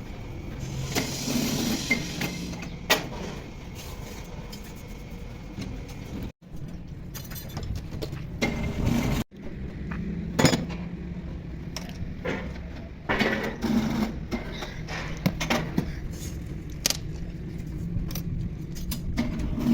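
Repeated metal clinks and knocks of work on a tractor gearbox over a steady low running hum. The sound cuts out abruptly twice.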